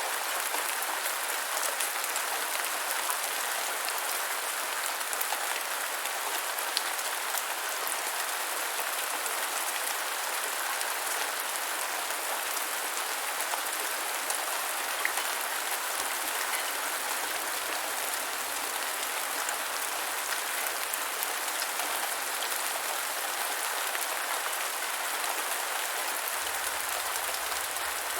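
Steady rain falling on the ground: a dense, even hiss of raindrops with occasional slightly louder individual drops.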